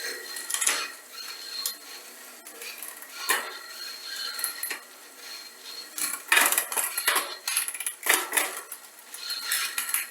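Metal clinking and clattering of tools and parts being handled during bicycle repair, in irregular bursts, loudest about six to seven seconds in and again around eight seconds.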